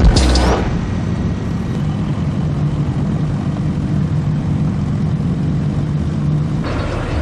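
A car engine running steadily at low revs, a deep even rumble. A louder burst of engine noise dies away in the first half second.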